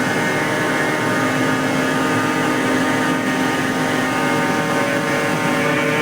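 Danfoss 90R250 axial piston hydraulic pump running on a test bench under load at reduced flow: a steady mechanical whine made of several fixed tones over a broad hum.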